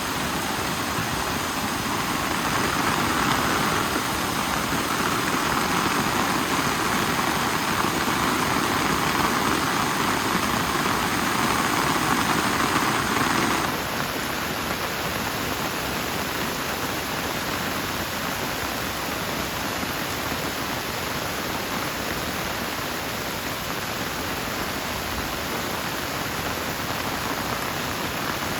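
Steady rain falling, an even rushing noise. In the first half a louder rushing sound lies over it and ends abruptly about halfway through, leaving the rain alone.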